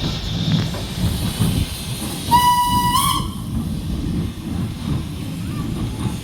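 Steam locomotive whistle giving one short blast of a little under a second, rising slightly in pitch as it closes, with a hiss of steam above it. A low rumble runs beneath throughout.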